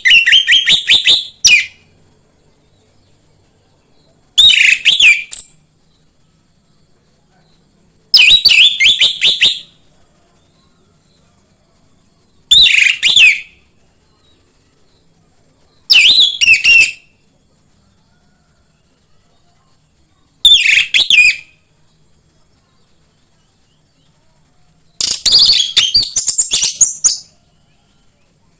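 Orange-headed thrush (anis merah) singing: short, loud phrases of quick varied whistled notes, each a second or two long, repeated about every four seconds, the last one longer.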